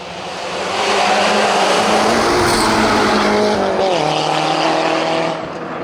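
Renault 5 GT Turbo rally car's turbocharged four-cylinder engine at full throttle as the car comes up and passes, growing loud over the first second. About four seconds in, the engine note drops with an upshift, and it fades slightly near the end.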